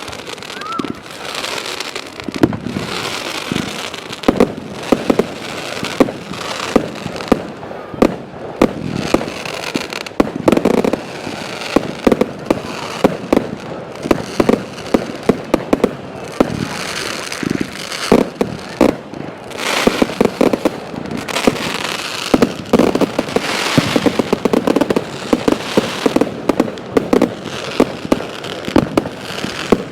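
Fireworks going off in a dense, continuous barrage: many overlapping bangs and crackles, with several sharp loud reports every second.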